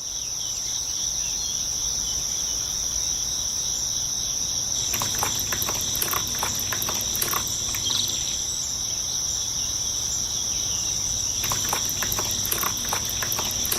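Crickets trilling in a steady, continuous high-pitched chorus. Scattered light ticks and scrapes come in two short stretches, about five seconds in and again near the end.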